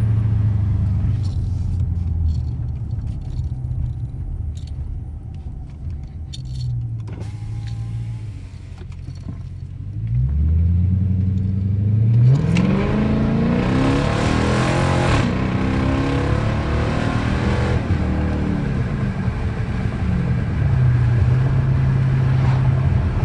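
2013 Dodge Charger's engine running at low revs, then about ten seconds in it is floored from a stop: the revs climb steeply, stay loud under hard throttle for about five seconds, then drop back to a steady low cruise near the end.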